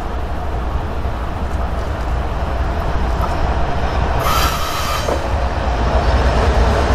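Several BNSF diesel locomotives hauling a freight train out of a tunnel, their engines rumbling low and growing steadily louder as they draw near and pass. About four seconds in there is a brief high-pitched squeal lasting under a second.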